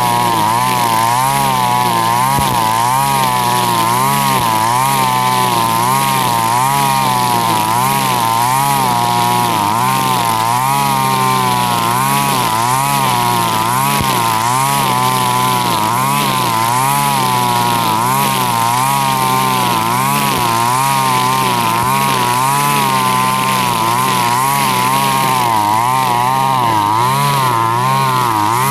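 Husqvarna 542RBS backpack brush cutter's two-stroke engine running at high speed with a nylon line trimmer head, its pitch wavering up and down continually as the spinning line cuts into grass.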